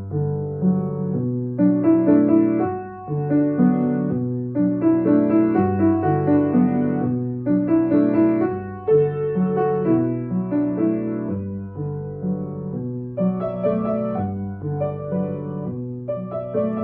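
Piano playing a flowing passage of chords with the sustain pedal, notes ringing on under each other and the pedal changed with each new harmony.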